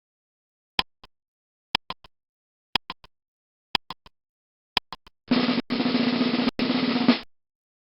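Timer sound effect: five sharp ticks about a second apart, each followed by one or two quieter ticks, then a snare drum roll of about two seconds with a steady low tone under it, cut off suddenly.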